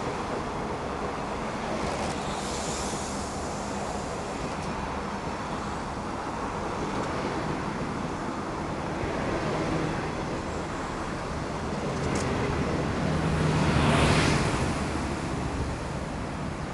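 A string of 25Z passenger coaches running past on the rails: a steady rumble and rush of wheels and air. It swells to its loudest about fourteen seconds in, as the last coach goes by, then eases off as the train pulls away.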